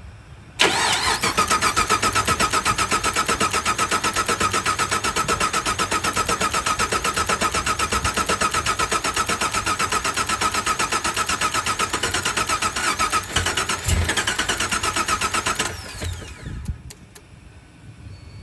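Car engine cranking on its starter for about fifteen seconds in an even rhythmic churn without catching: a cold engine that will not start. The cranking stops abruptly, followed by a few faint clicks.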